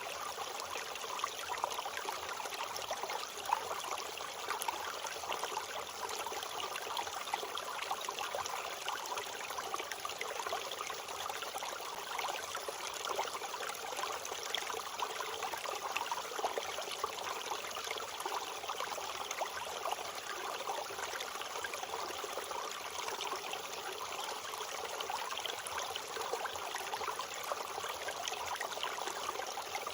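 A creek running steadily over rocks: an even rushing and trickling of water.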